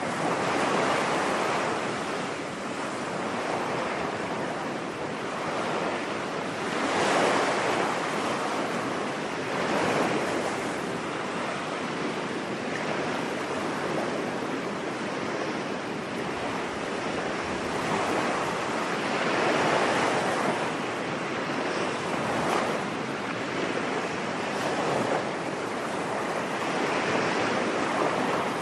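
Ocean surf: waves breaking and washing up on a beach, swelling and ebbing every few seconds.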